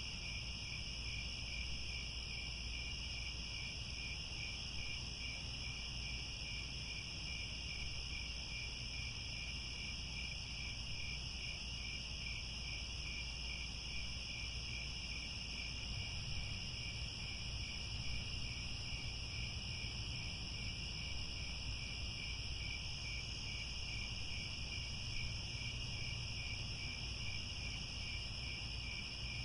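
A chorus of crickets chirring steadily in overlapping high trills with a regular fine pulse, over a faint low rumble.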